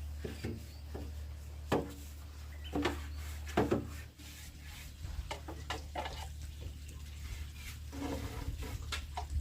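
A string of light, irregular knocks and clatters, about a dozen short hits, over a steady low hum.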